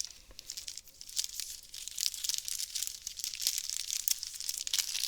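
Plastic booster pack wrapper crinkling and tearing open in the hands, a dense crackle that gets louder and busier about a second and a half in.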